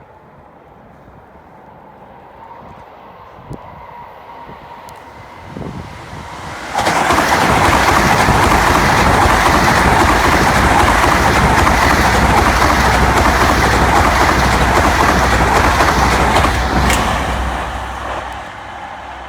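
A train approaching, then passing close by with a loud, steady rush of wheel and rail noise for about ten seconds, fading away near the end.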